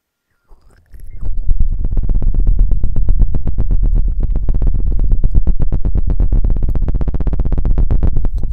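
Rapid, even scratching and knocking on the microphone with an ASMR rod, about a dozen strokes a second with a heavy low thump. It starts suddenly about half a second in.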